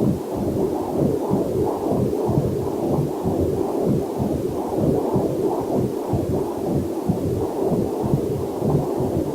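Fetal heartbeat picked up by a fetal Doppler monitor: a fast, even run of pulses, low and muffled.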